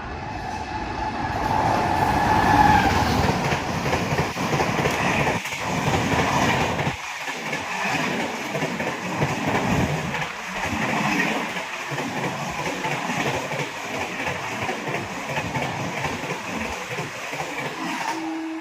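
Passenger train passing at speed, its wheels clattering over the rail joints as the coaches go by. It is loudest a few seconds in and slowly fades toward the end.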